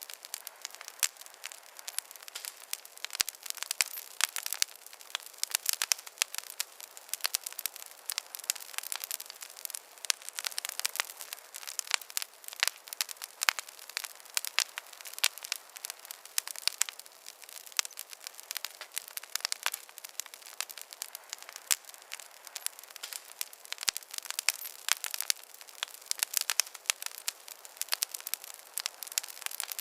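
Wood fire crackling: a steady stream of irregular sharp pops and snaps over a faint hiss.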